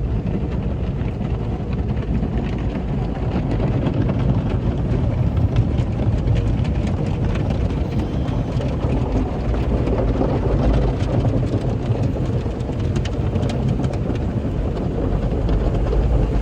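Automatic car wash running, heard from inside the car's cabin: a steady rushing rumble of water spray and wash machinery against the car body, with faint scattered taps.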